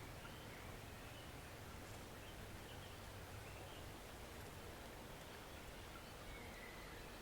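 Small forest stream running with a steady, soft rushing, with faint short bird chirps a few times over it.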